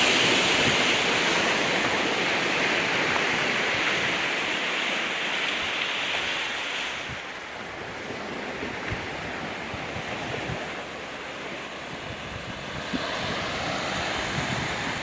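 Ocean waves washing onto a rocky beach, a wash that eases about halfway through and builds again near the end, with wind buffeting the microphone.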